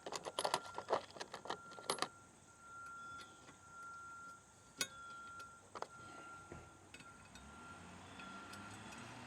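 Small metal mounting hardware (bolts, washers and nuts) clinking and rattling as it is handled and fitted to a bracket by hand. A quick run of clinks comes in the first two seconds, then a couple of single clicks about halfway through.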